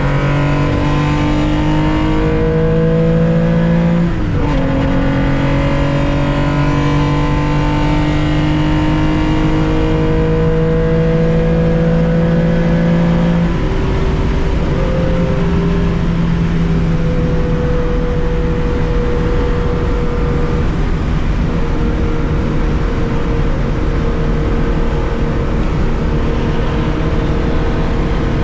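1965 Porsche 911 2.0's air-cooled flat-six heard from the cockpit under hard acceleration, revs climbing and dropping with upshifts about four seconds in and again around thirteen seconds in. After that it runs near steady high revs in a tall gear, pitch creeping up slowly.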